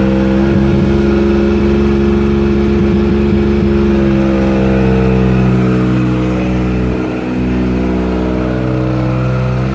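Kubota gasoline pony motor on a bucket truck running steadily at a constant speed.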